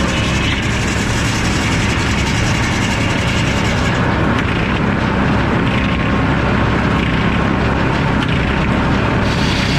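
Circular sawmill with an F-pattern inserted-tooth saw blade running, a loud, steady mechanical noise. The high hiss drops away about four seconds in and returns near the end.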